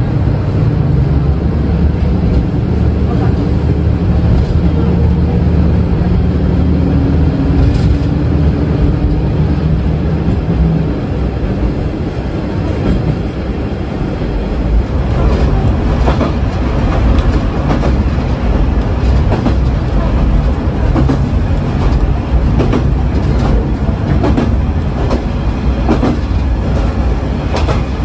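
Diesel railcar running on the line, a low steady drone at first, then wheels clacking over rail joints from about halfway through.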